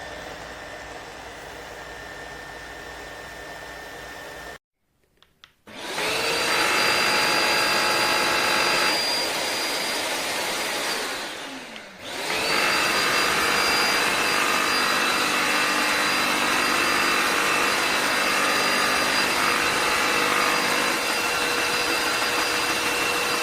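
Tineco iFloor 5 Steam wet-dry floor vacuum's motor starting with a rising whine and running loudly, then winding down for a moment and starting up again to run steadily. Before it starts, a quieter steady hum breaks off into a second of silence.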